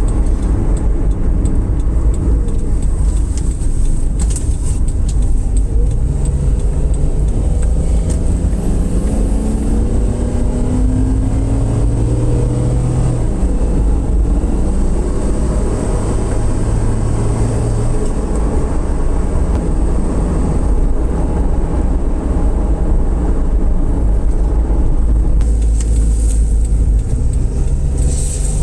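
A vehicle in motion: steady loud road rumble under an engine hum whose pitch holds, rises and steps several times.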